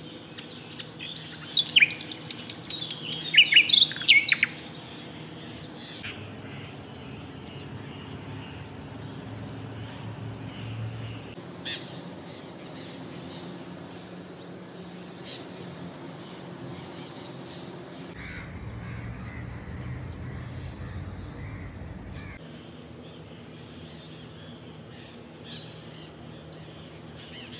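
Birds calling in the morning: a loud run of rapid, sweeping high-pitched calls in the first few seconds, then fainter scattered chirps over a low steady background hum.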